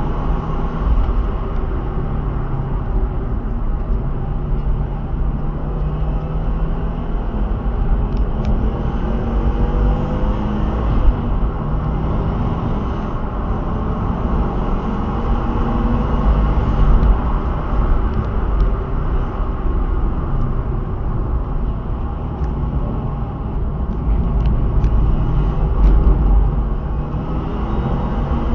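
Turbocharged car engine running under load, its pitch rising and falling as the revs change, over heavy low road and wind rumble.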